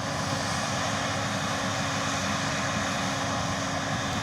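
A steady engine drone with a constant low hum, running evenly without change.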